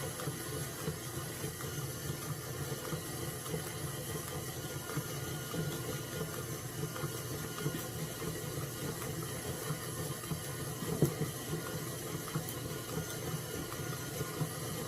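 Stand mixer running steadily at low speed, churning cultured sour cream into butter, with one brief knock about eleven seconds in.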